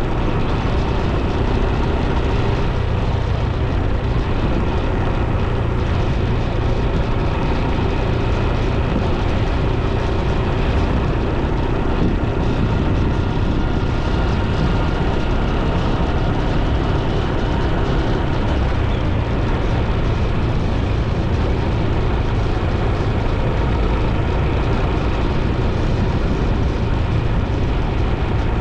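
Steady road-riding noise: wind rumbling over the microphone with a vehicle's engine and tyres running underneath, unchanging throughout.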